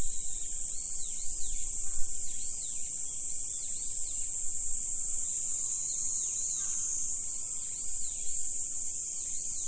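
Chorus of insects such as crickets, a steady high-pitched trill, with faint short arching chirps repeating through it.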